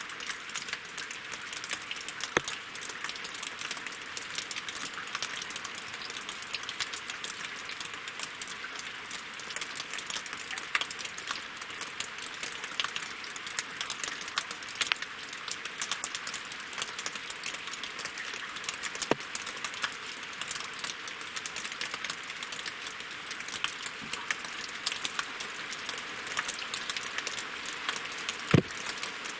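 Steady rain falling on a lake and on wet logs: a dense patter of small drops, with a few louder single drops striking close by, the loudest near the end.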